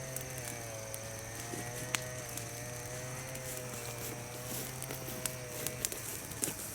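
Bonfire of green chestnut branches crackling, with scattered sharp pops: one about two seconds in and a run of them near the end. Under it a steady, slightly wavering hum cuts out near the end.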